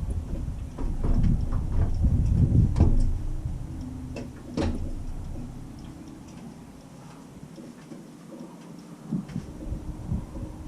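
Wind buffeting the microphone in uneven low gusts, with a few sharp knocks. About halfway through the gusting dies down and a faint steady hum is left, then the buffeting returns near the end.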